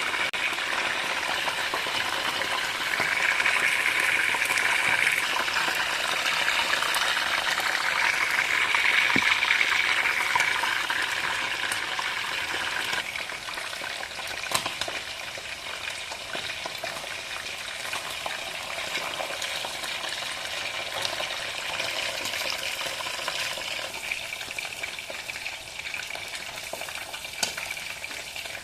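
Food sizzling in hot oil in a kadhai, with a spatula now and then clicking and scraping against the pan as it is stirred. The sizzle is loudest in the first third and dies down noticeably about halfway through.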